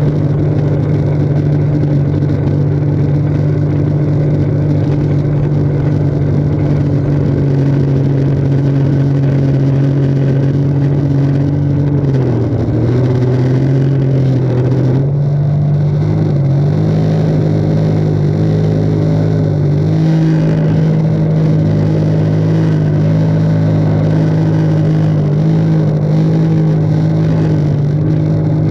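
Jet ski engine running steadily under throttle. Its pitch sags about twelve seconds in, then climbs back a few seconds later as the throttle is opened again.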